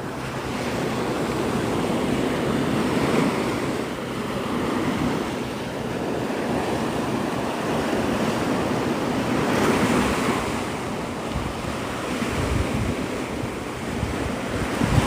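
Gulf surf breaking and washing on the beach, swelling and easing in slow waves, with wind buffeting the microphone now and then.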